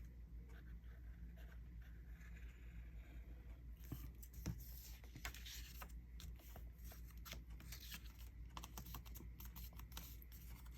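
Faint steady low hum, then from about four seconds in, quick rustling and scraping of scrapbook paper being handled at a craft table.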